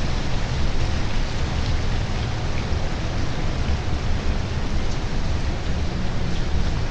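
Steady rain falling: an even hiss with a low rumble underneath and a few faint drop ticks.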